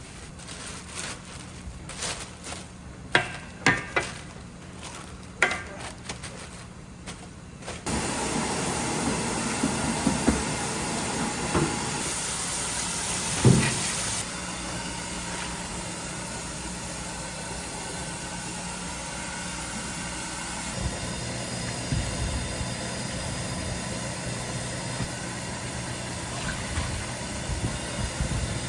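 Street-food stall kitchen sounds: a few sharp knocks and clicks of utensils, then a steady hiss over a low mechanical hum that starts abruptly about eight seconds in.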